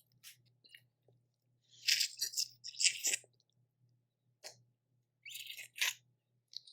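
Close-miked eating of boiled crawfish: a few short crunching and chewing sounds in clusters, about two seconds in, around three seconds, and again near the end.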